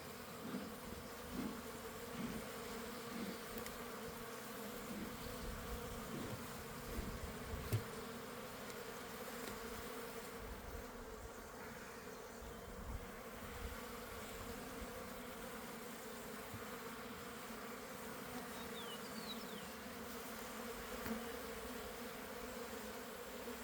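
Honeybees buzzing steadily around an open hive, a dense continuous hum. A single sharp click about eight seconds in.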